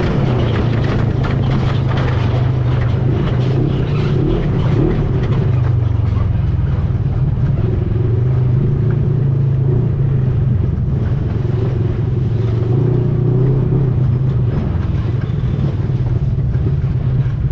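ATV engine running steadily while riding, its pitch dipping and rising a little with the throttle, over a broad rushing noise.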